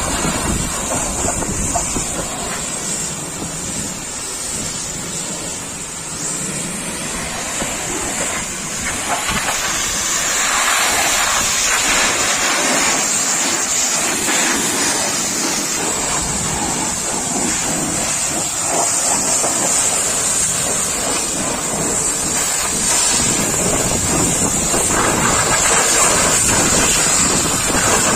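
Pressure washer spraying water onto a vehicle, a steady hissing spray.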